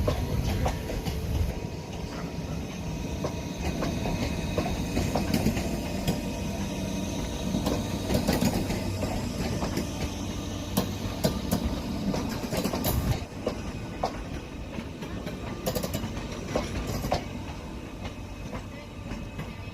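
A passenger train moving on the track, with a low rumble and repeated sharp clicks of its wheels over rail joints; it becomes quieter about thirteen seconds in.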